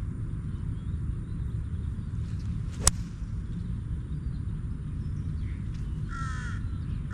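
Steady low rumble with a single sharp click about three seconds in, then a crow cawing near the end.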